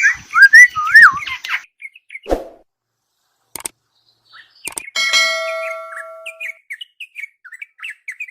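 Black-naped oriole singing loud, fluting whistles that glide up and down, in a quick run for about the first second and a half. Then a thump, two sharp clicks, and about five seconds in a metallic ring that fades over a second and a half, with soft short chirps after it.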